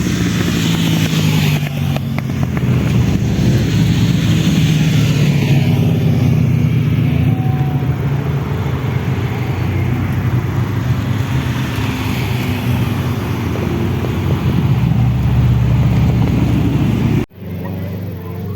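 Motorcycle engines running at fairly steady revs, with small rises and falls in pitch. About seventeen seconds in the sound cuts off sharply and a different, quieter engine sound takes over.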